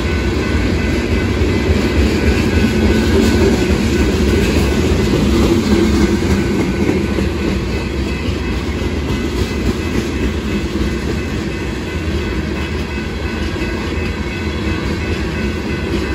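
Loaded freight gondola cars of a rock train rolling past at a steady speed: a continuous rumble of steel wheels on the rails with a clickety-clack of wheels over the joints.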